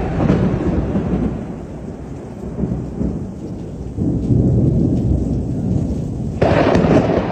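Heavy rainstorm: a loud, continuous deep rumbling roar of rain and storm noise, swelling and easing. About six and a half seconds in, it suddenly turns louder and hissier.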